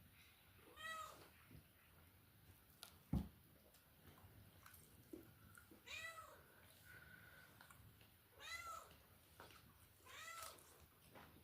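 A cat meowing four times, each call rising and falling in pitch, with a single sharp knock about three seconds in.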